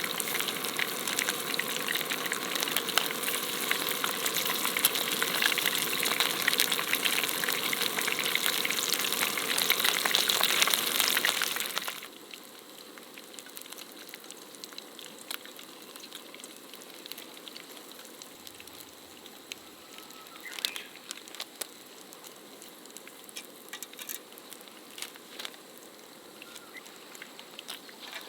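Food frying in hot oil with a dense crackling sizzle. About twelve seconds in the sound drops abruptly to a much quieter, sparse crackle.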